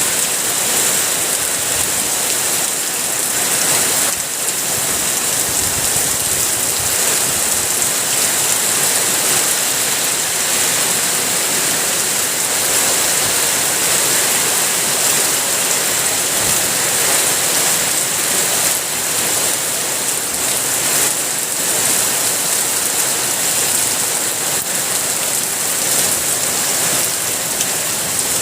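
Heavy rain falling steadily on surfaces, a dense, even hiss.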